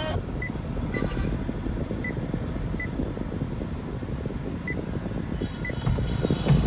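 Six short, high electronic beeps at uneven intervals from a car's Android touchscreen head unit, the tap-feedback tones of the screen being operated. Under them runs the car's steady low cabin rumble.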